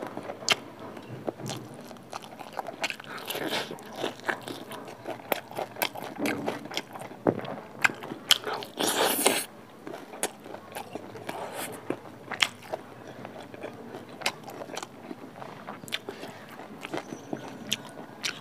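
Close-miked chewing of a mouthful of pork curry and rice, with many short wet mouth clicks and smacks, and the squish of fingers mixing rice with gravy. One longer, louder sound comes about nine seconds in.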